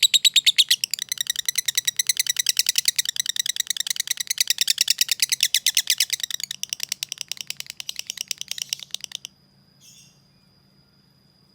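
Lovebird giving a long, fast, evenly spaced chattering call of sharp high chirps (the 'ngekek' trill). It weakens after about six seconds and cuts off about nine seconds in.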